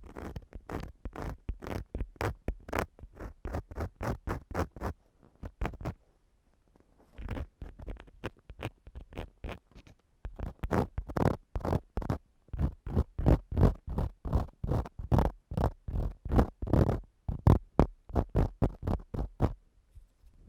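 ASMR ear-cleaning tool scratching and rubbing on a microphone in quick repeated strokes, about three a second, with a brief pause about a third of the way in.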